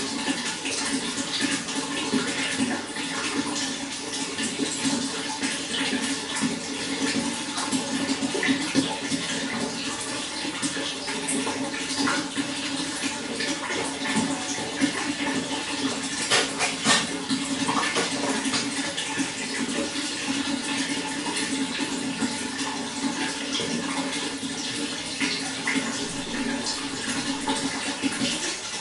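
Running water flowing steadily, with a continuous rush and a few brief sharper splashes about twelve and seventeen seconds in.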